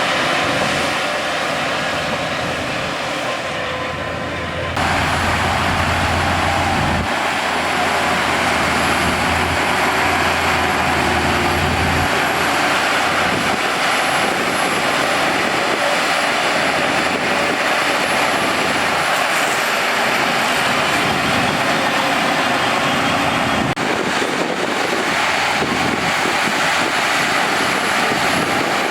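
Heavy earthmoving machinery at work: the steady, loud drone of big diesel engines, changing abruptly about five seconds in and again near the end.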